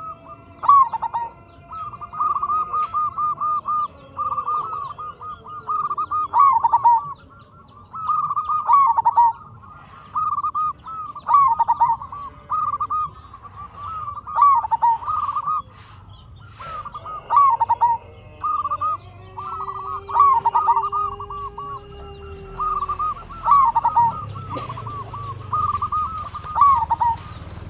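Zebra dove (perkutut) singing: repeated cooing phrases of quick, short notes, a bout every couple of seconds.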